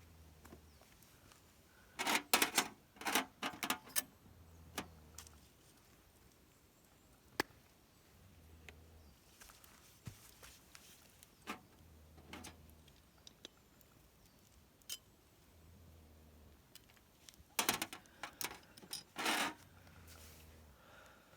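Clicks and clinks of small hard objects being handled, in a quick cluster a couple of seconds in and another near the end, with a few single ticks between.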